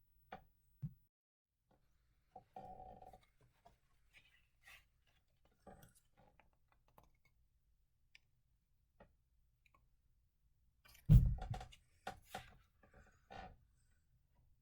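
Scattered faint clicks and taps, with a louder thump about eleven seconds in.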